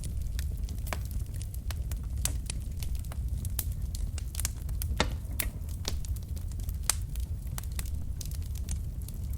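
Wood fire burning in a fireplace: irregular sharp crackles and pops from the logs over a steady low rumble of the flames, with a louder pop about five seconds in.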